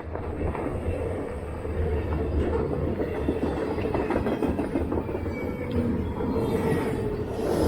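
Fat e-bike being ridden over a trail: a steady low rumble from the fat tyres rolling, with dense, irregular rattling on top.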